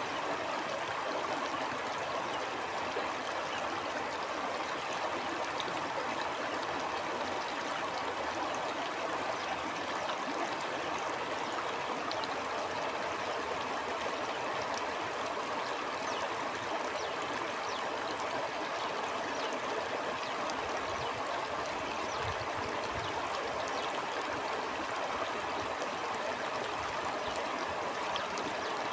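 Stream water flowing steadily over rocks, a continuous rushing and trickling with no change in level. A few faint low thumps come through in the later part.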